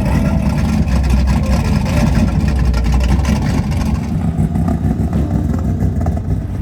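Car engine running with a loud, deep rumble; the higher sound thins out about four seconds in.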